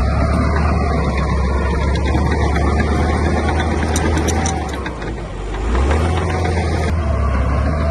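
Heavy diesel engine of construction machinery running steadily under load. The engine note dips briefly a little after the middle and then comes back up, with a few sharp metallic clicks just before the dip.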